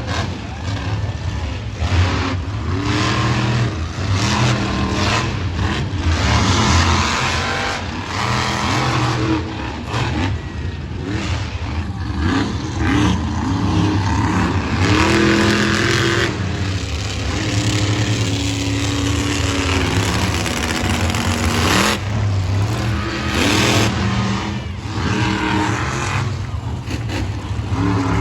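Monster truck engine running hard, revving up and down over and over as the truck drives, with a few sharp bangs mixed in.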